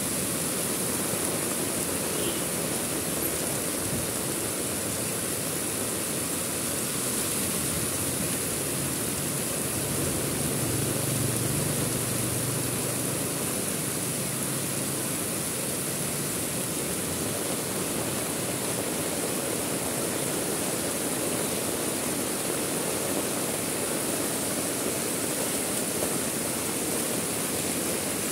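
Heavy rain falling steadily, a dense even hiss. A faint low hum swells and fades around the middle.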